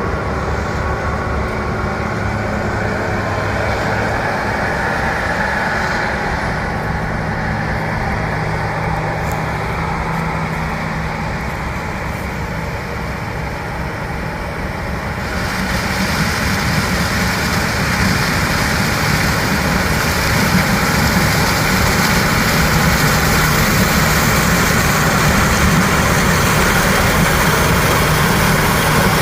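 Diesel engine of harvest machinery running steadily, getting louder and busier about halfway through.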